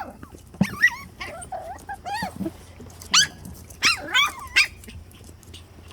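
Puppies yipping and barking: a run of about seven short, high-pitched yips, spaced unevenly, fading out near the end.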